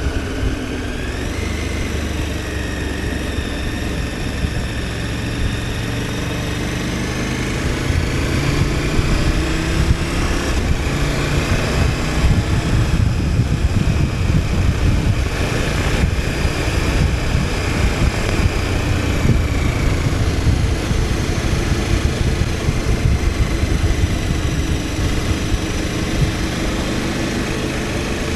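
KTM 1290 Super Adventure S's V-twin engine running on the move, its note rising and falling gently with the throttle and a little louder from about eight seconds in.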